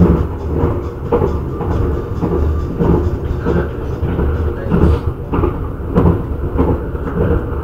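Airport rail-link train running at speed, heard from inside the carriage: a steady rumble with a regular knocking a little under twice a second.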